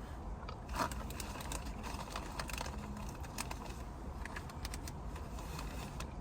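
Close-miked eating sounds: scattered small clicks and crackles of chewing a sandwich, over a steady low rumble.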